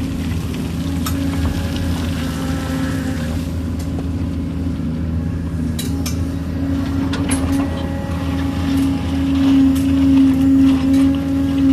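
Kobelco excavator's engine and hydraulics running steadily, with a strong humming tone that swells louder near the end. Several sharp clinks, like metal on rock, are scattered through it.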